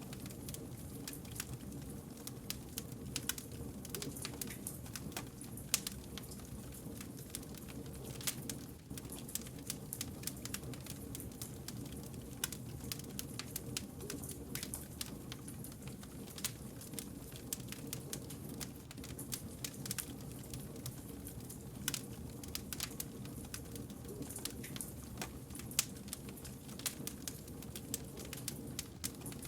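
Wood campfire burning, crackling and popping with many irregular sharp snaps, several a second, over a steady low rumble of the flames.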